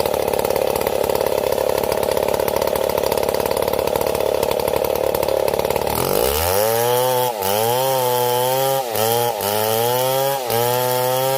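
STIHL MS 070 two-stroke chainsaw idling, then revved to full throttle about halfway through. It holds high revs with a few brief dips and drops back toward idle at the end.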